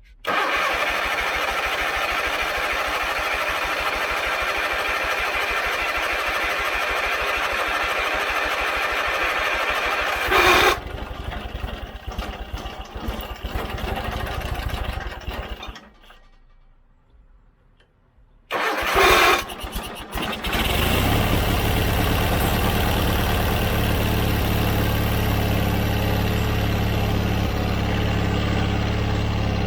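John Deere 317 riding mower's engine being started after a carburetor cleaning. It runs unevenly for about fifteen seconds with a loud surge near the middle, then stops. After a couple of seconds of quiet it fires again with a loud burst and settles into steady running.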